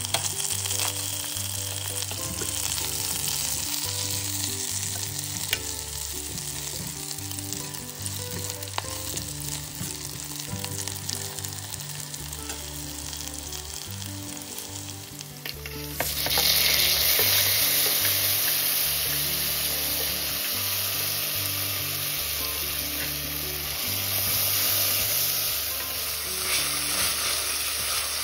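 Chopped onions and chilies sizzling in hot oil in a steel pan, with faint crackles. About halfway through the sizzle turns suddenly louder as chopped tomatoes cook and are stirred with a steel ladle. Soft background music with low bass notes runs underneath.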